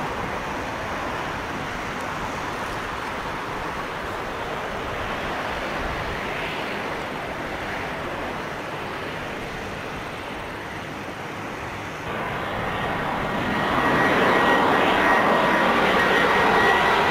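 Jet airliner engines: a steady rush that grows louder about three-quarters of the way through, with a high engine whine coming in as it does.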